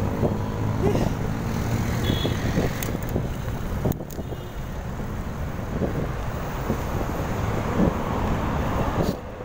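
Wind rushing over the microphone with road traffic noise while riding along a road, a steady rumbling noise that drops away abruptly near the end.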